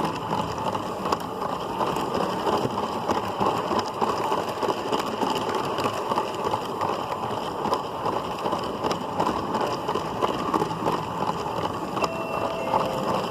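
LEGO City Passenger Train 60197 running along its plastic track: a steady rattle and clatter of the wheels and motor, heard from on board one of its cars.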